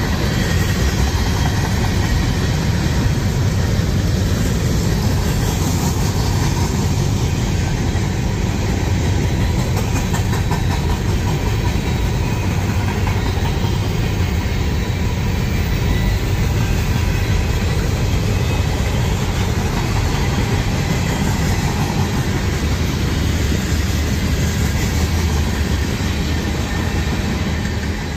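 Freight cars of a CSX manifest train, tank cars and covered hoppers, rolling past at close range: a steady, loud rumble of steel wheels on rail.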